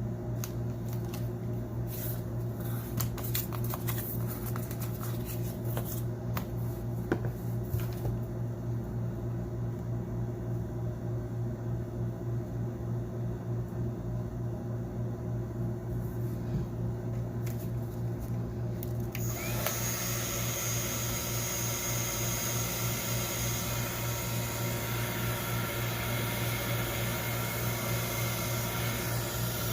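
Light clicks and taps of a phone being handled over a steady low hum; about two-thirds of the way through, a hot-air heat gun switches on with a steady airy hiss, heating the adhesive under the Samsung Galaxy Note 8's glass back cover so it can be removed.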